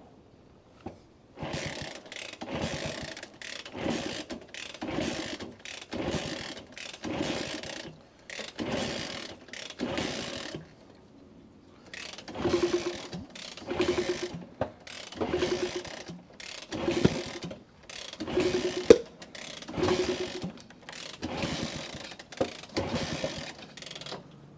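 1964 Honda C200 being kicked over again and again without catching: a ratcheting mechanical stroke about once a second, in two runs with a short pause near the middle. The engine won't start after dying on a ride, which the owner thinks could be a clogged pilot jet or debris in the fuel line.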